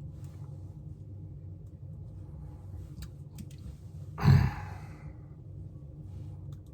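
A man's single audible sigh, a short breathy exhale about four seconds in, over a steady low hum, with a few faint small clicks of plastic figure parts being handled.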